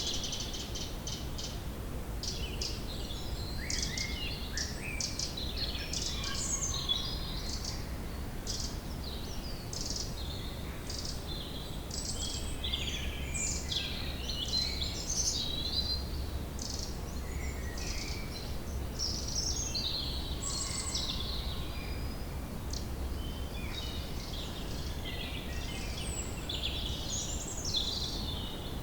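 Woodland ambience: several birds singing and calling, with rapid chirps and trills overlapping all through, over a steady low background rumble.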